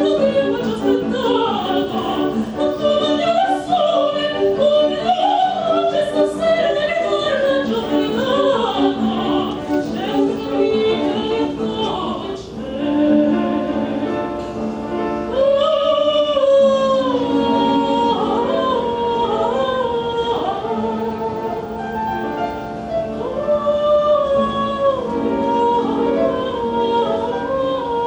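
Classical music: an operatic voice singing with wide vibrato over sustained instrumental accompaniment.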